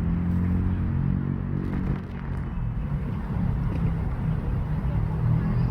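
A steady low engine rumble with a low hum.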